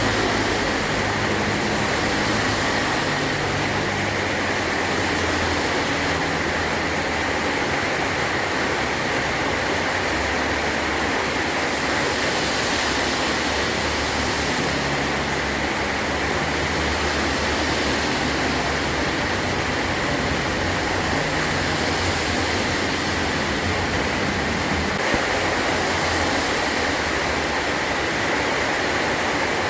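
Heavy rain falling steadily on a metal roof, a dense even hiss with a faint low rumble shifting underneath.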